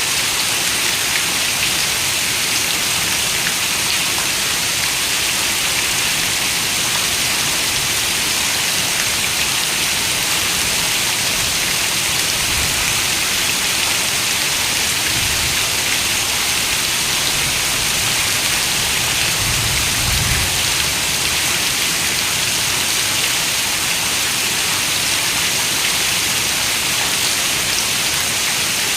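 Steady, dense rainfall, an even hiss of many drops with no let-up, with a few faint low rumbles around the middle.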